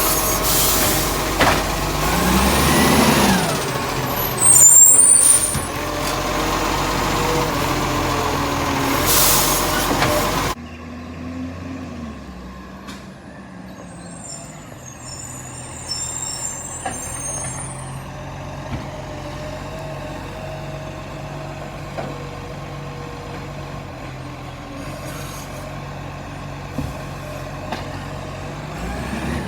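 Garbage truck with an automated lifting arm working: diesel engine running with a whine that rises and then falls as the arm cycles, and a sharp air-brake hiss a few seconds in. About a third of the way through the sound drops suddenly to a quieter, steady engine running.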